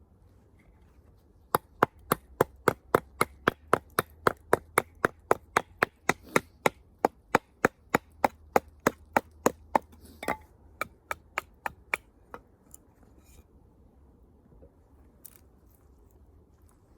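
Wood being chopped in quick, even strikes, about four a second, with a sharp crack to each blow; the strikes stop after about twelve seconds.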